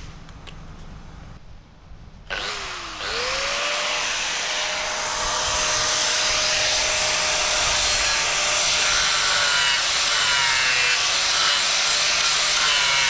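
Electric router with a ripper bit switching on about two seconds in, winding up to a steady high whine, then cutting into the wood with a loud rough shredding noise; its pitch sags a little under load near the end.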